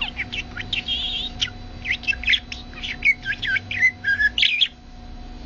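Pet parrot chattering in a rapid run of short chirps and squawks, stopping abruptly near the end.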